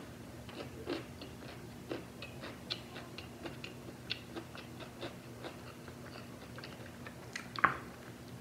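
A person chewing a mouthful of KFC crispy chicken burger close to the microphone, with many small mouth clicks, then one loud bite into the burger near the end.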